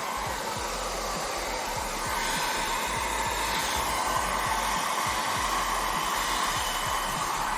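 Hair dryer running steadily on its low-speed setting, blowing air to dry out a water-damaged car stereo head unit.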